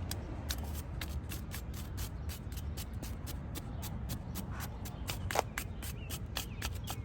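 Rapid repeated scraping strokes, coming faster, about four to five a second, in the second half, as dirt and old grease are cleaned from the brake caliper bracket where the pad clips sit, over a steady low hum.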